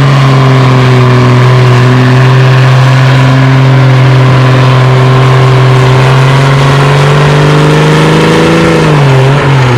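Oliver tractor engine running hard at a steady pitch under full load while pulling the sled. Near the end the pitch rises a little, then falls as the engine pulls down and the pull runs out.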